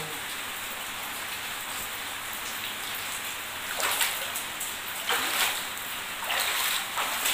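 Steady hiss of heavy rain, with louder splashes from about four seconds in as someone wades through shallow floodwater.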